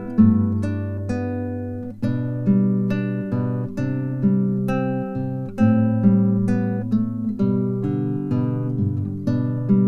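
Acoustic guitar music: plucked notes and chords, each ringing out and fading before the next.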